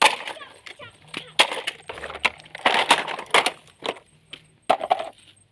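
Irregular series of sharp cracks and knocks, about a dozen, like something dry or wooden snapping and being knocked about.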